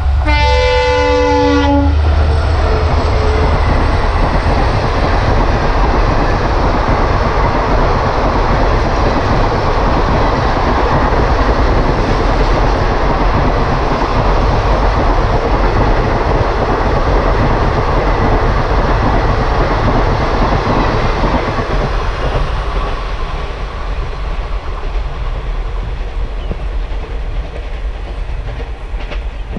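A diesel locomotive horn sounds once, for about a second and a half. Then a long passenger train runs past with a steady rumble and clickety-clack of coach wheels on the rail joints, fading away over the last several seconds.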